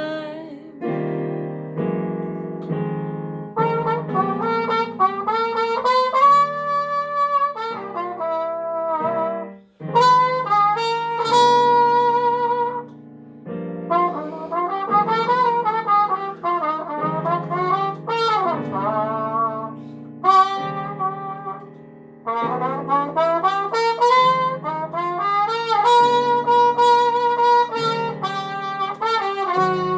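Instrumental jazz break: a brass instrument, trumpet-like, plays a slow, bluesy solo line with sliding pitch bends over held accompanying chords.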